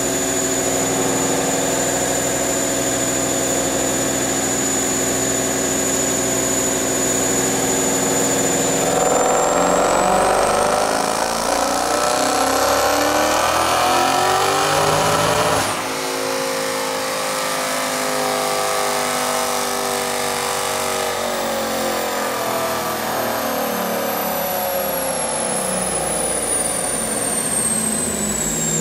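Twin-turbo 2015 Ford Mustang GT 5.0 V8 running on a chassis dyno. It runs steadily in gear with a high whine, then about nine seconds in makes a pull with engine note and whine rising for about seven seconds. The pull cuts off suddenly and the engine coasts down with falling pitch. The run made about 980 horsepower, and the owner thinks the charge pipe probably blew off again.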